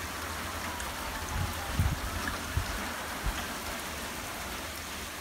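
Rain from a squall-line thunderstorm falling steadily, with a few brief low thumps between about one and a half and three and a half seconds in.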